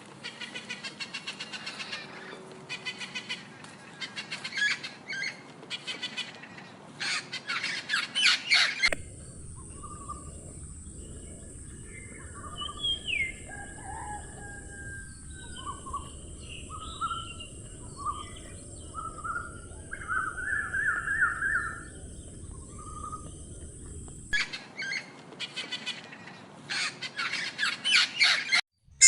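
Small birds chirping: rapid, repeated high chirps at first, then a stretch of scattered, varied calls over a steady high hiss, then rapid chirping again near the end.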